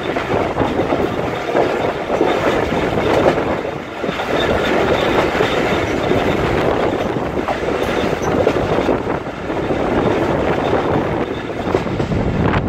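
A passenger train coach running along the track, heard from its open doorway: the steady noise of steel wheels on the rails.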